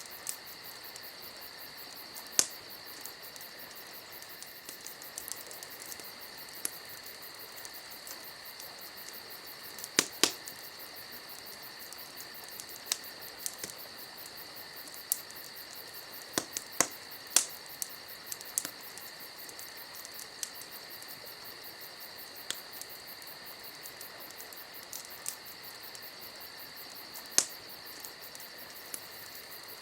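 Campfire crackling with scattered sharp pops, over a steady, continuous chirring of crickets.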